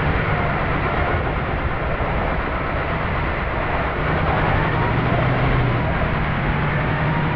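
Steady, loud rushing of blizzard wind with the low hum of a vehicle engine running beneath it.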